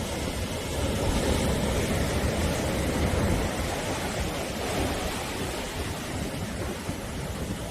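Sea surf washing onto the shore as a steady rush of noise. It swells slightly about a second in, then eases.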